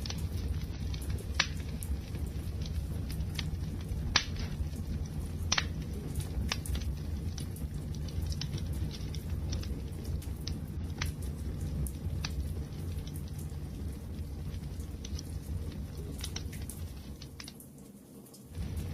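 Wood fire crackling: a steady low rumble of burning with scattered sharp pops and snaps, the loudest about a second and a half, four and five and a half seconds in. The sound drops away briefly near the end, then comes back.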